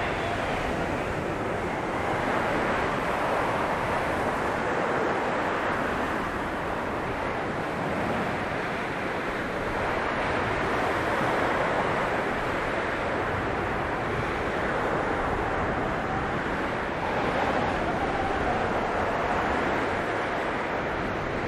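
Blizzard wind blowing steadily, a dense rushing noise that swells and eases every few seconds, with a faint wavering whistle near the end.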